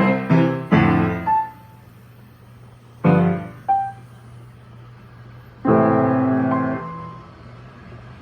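Steinway Duo-Art reproducing piano playing from a roll: a run of quick notes, then separate chords struck about a second and about three seconds in, and a fuller chord near six seconds that rings and dies away. A faint steady low hum sounds in the pauses between chords.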